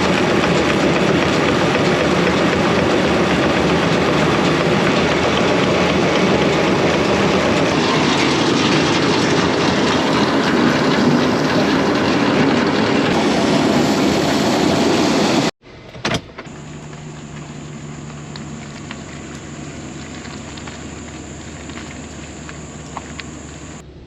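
Loud, steady farm machinery running with a dense rushing noise, which stops abruptly about two-thirds of the way through; after it comes a quieter, steady engine hum with a low drone.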